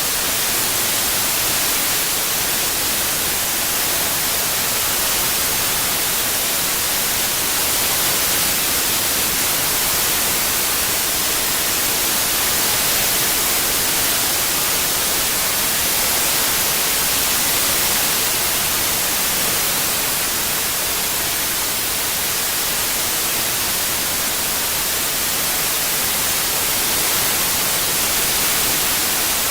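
Steady synthetic white noise, an even hiss brightest in the high end, swelling and fading gently every few seconds as it is panned around the listener.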